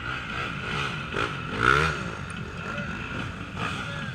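Off-road racing motorcycles revving. Several engines rise and fall in pitch, and the loudest rev comes just under two seconds in.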